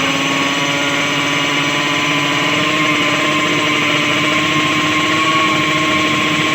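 Drag-racing motorcycle engine held at steady high revs, its pitch almost level and creeping slightly upward.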